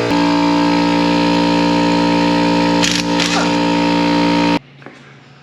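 Electric air compressor running with a steady, loud hum. It cuts off suddenly near the end.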